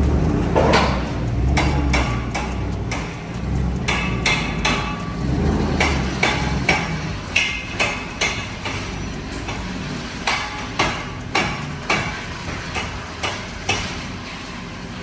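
A hammer striking repeatedly: about twenty sharp, irregular blows, each with a short ring, stopping shortly before the end, over a low rumble.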